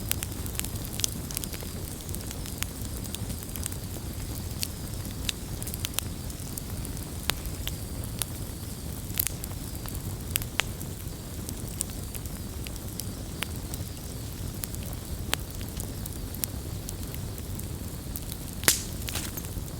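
Campfire crackling: scattered sharp pops and snaps over a steady low rumble of the flames, with one louder pop near the end.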